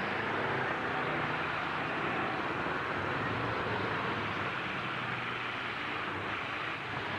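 Engines of demolition-derby trucks running together in a steady, dense din, with faint wavering engine tones and no single crash standing out.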